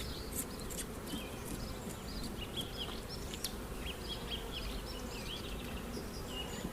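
Honey bees buzzing around an open hive, a steady hum, with a few light clicks and short high chirps over it.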